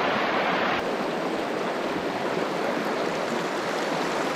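Mountain stream running: a steady rush of flowing water with a small change in tone about a second in.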